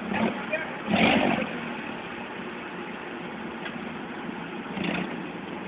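Forklift engine running steadily, with a louder surge about a second in.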